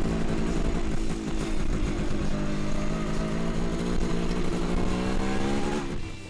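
MZ ETZ 150's 150 cc single-cylinder two-stroke engine running on the road, its pitch rising steadily over several seconds as it pulls, then falling away sharply near the end.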